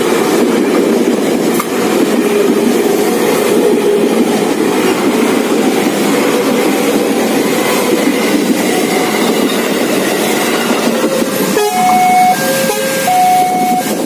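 KRL Commuter Line electric train passing at close range, a steady rumble of wheels on rails. About twelve seconds in it breaks off to a level-crossing alarm sounding two tones in alternation.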